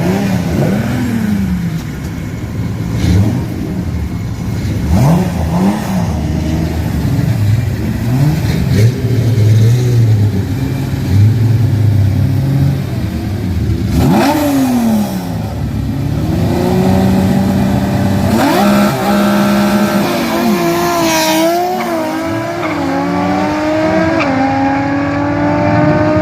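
Tuned Nissan L-series straight-six drag cars: engines blipping the throttle in repeated rises and falls for the first half. About 14 s in, one car goes by loudly, falling in pitch. Then an engine pulls hard with its pitch climbing steadily, with a brief dip about 21 s in like a gear change.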